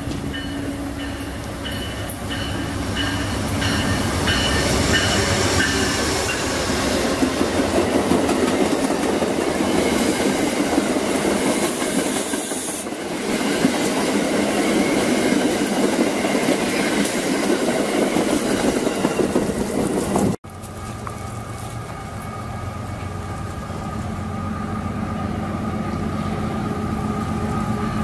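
Amtrak passenger train running past at close range, its wheels clattering over the rail joints as the cars go by. After an abrupt cut about 20 seconds in, a CSX freight train's diesel locomotive drones steadily as it approaches.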